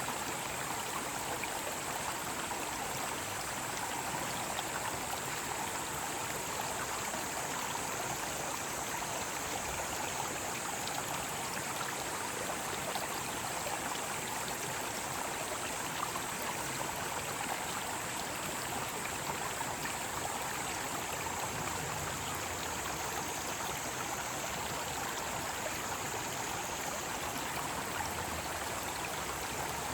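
Mountain stream rushing steadily over rocks, with a continuous high-pitched drone of cicadas singing above the water.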